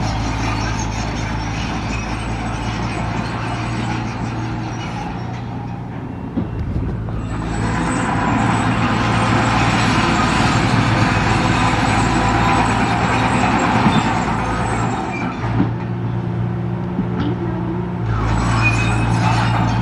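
Heavy diesel engine of a construction machine running steadily. From about seven seconds in to about fifteen seconds in, a louder rushing noise joins it.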